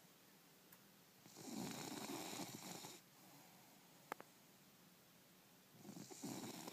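Bulldog snoring: two drawn-out rasping snores with a hissy edge, the second starting near the end, and a sharp click between them.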